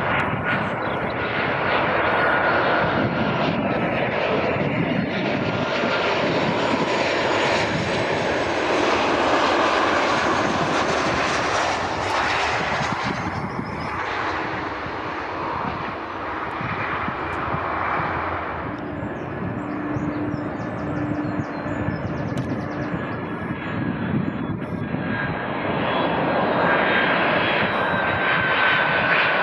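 Jet engines of a Ryanair Boeing 737 airliner running as it passes. About two-thirds of the way in, a Delta Boeing 767 takes over, its jet noise steady with a thin high whine.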